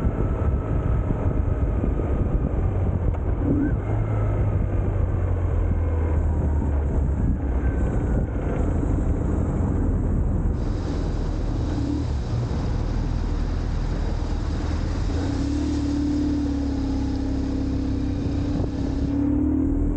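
BMW R1150GS Adventure's boxer-twin engine running under way, with steady wind rush over the microphone. About three-quarters of the way through, the engine note holds steadier and rises slightly near the end.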